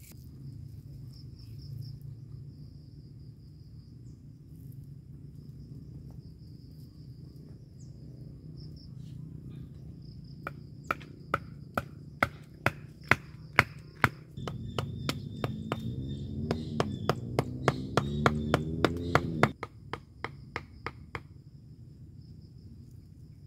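Tent pegs being hammered into the ground: a run of sharp knocks, two to three a second, starting about ten seconds in and stopping a couple of seconds before the end. Insects chirr steadily throughout, and a low droning tone rises in pitch twice under the knocking.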